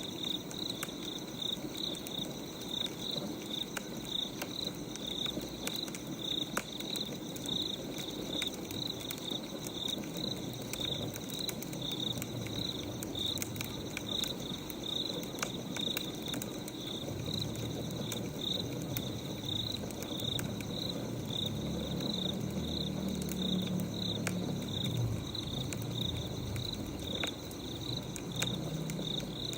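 Crickets chirping in a steady regular pulse over scattered sharp crackles of a wood fire. A low rumble joins in a little past the middle.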